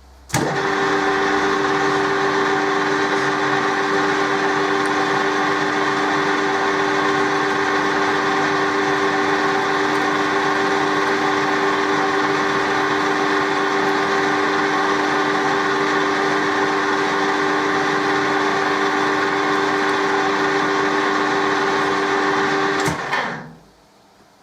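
Colchester metal lathe switched on and running with a steady whine while taking a light turning cut, then switched off about 23 seconds in and running down.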